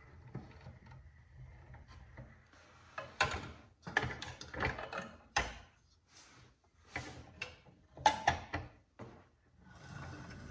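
Old pressed-steel Tonka toy trucks, a rusty cement mixer and a tow truck, being handled and pushed about on a workbench mat. The sound is a string of irregular clunks, rattles and scrapes, starting about three seconds in and thinning out near the end.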